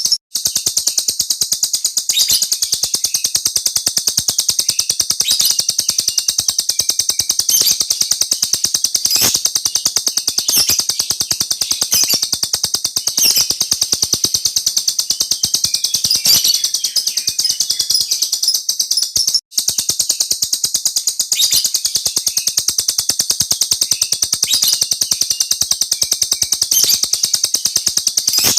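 A small songbird singing a long, unbroken rolling trill: a very rapid, even run of high-pitched notes, the continuous 'ngeroll' song that bird keepers prize, with one short break about two-thirds of the way through.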